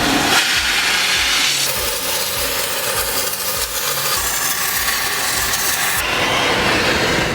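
A power tool running in a workshop: a steady, loud rasping noise like sawing or grinding, which shifts in tone a few times.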